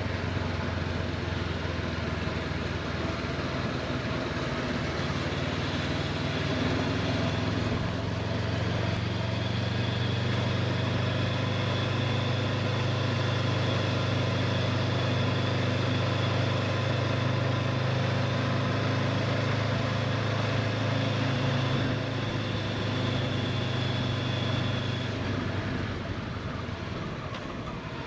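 Honda CB500X parallel-twin engine running steadily while riding, with wind and road noise. The engine note drops near the end as the bike slows.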